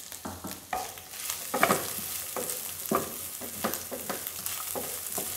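Sliced onion and shredded chicken sizzling in oil in a frying pan, stirred with a wooden spatula that scrapes and knocks against the pan again and again.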